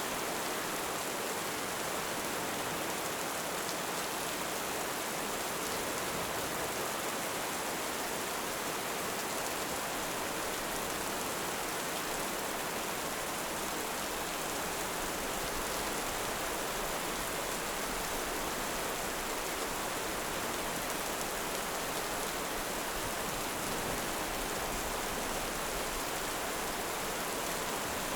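Heavy rain falling steadily, an even hiss with no breaks or swells.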